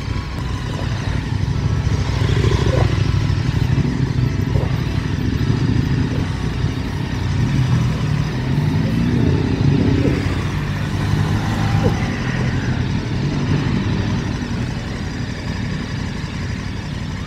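Motorcycle engine running at low speed as the bike rolls slowly through a car park, its revs rising briefly about nine seconds in.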